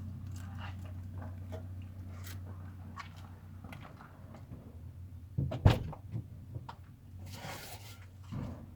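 Scattered small clicks and knocks of parts being handled, with one louder knock a little past halfway, over a steady low hum.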